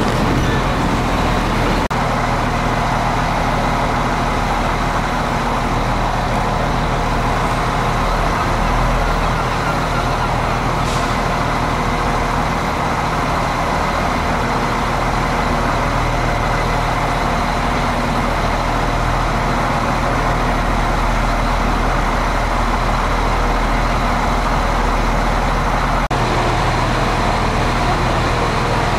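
Stationary Irish Rail train standing with its engine running at idle, a steady low hum that does not change.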